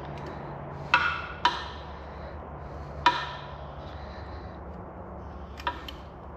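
Hand tools clinking on metal as a bolt is run in with a speed handle and socket: four sharp metallic clicks spread over the few seconds, each ringing briefly, over a low steady hum.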